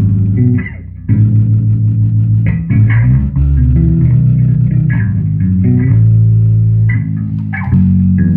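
Kramer 522s electric bass guitar playing a line of plucked, sustained low notes that change pitch every half second to a second, with a short break about a second in.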